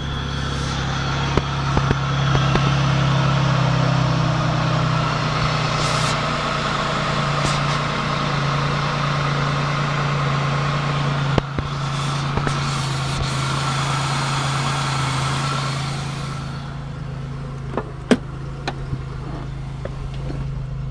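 Pontiac Bonneville's 3.8 V6 idling just after a cold start, with a steady low hum, a louder stretch through most of the middle that eases off near the end, and a couple of sharp clicks. The owner fears a bent connecting rod or a bad rocker arm after it began clicking and knocking.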